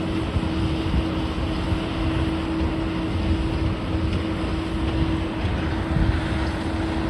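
Heavy demolition machinery running steadily: a low engine rumble with a constant hum that stops near the end, and some wind on the microphone.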